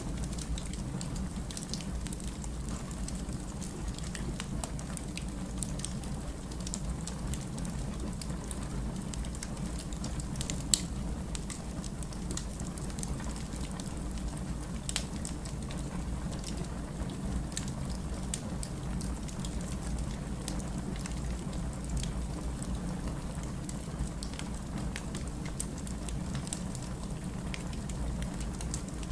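Wood fire burning, with irregular sharp crackles and pops over a steady low rumble; one louder pop about eleven seconds in.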